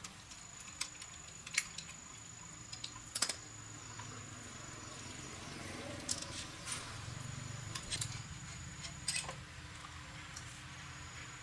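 Scattered light metallic clicks and clinks, as of small metal parts or hand tools being handled, over a faint high steady whine that comes and goes.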